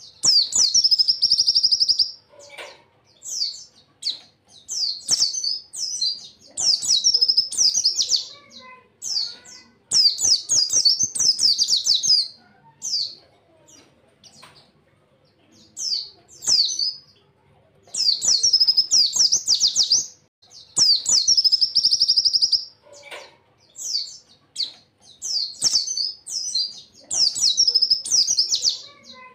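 White-eye (pleci) singing: rapid, high-pitched twittering phrases of a second or two, repeated with short pauses and a quieter stretch about halfway through.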